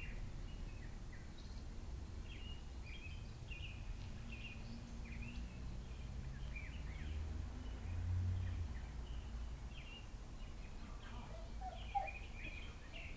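Small birds chirping in many short calls over a low steady hum. Lower falling calls join in near the end, and there is a single sharp click shortly before the end.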